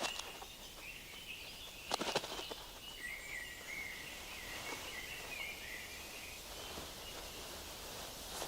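Forest ambience with faint, continuous high chirping, like birds or insects. About two seconds in there is a short crackle, like dry leaves or twigs rustling, and a few fainter rustles follow.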